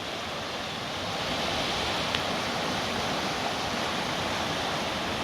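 Steady rush of a waterfall, an even hiss of falling water with no change, and a faint tick about two seconds in.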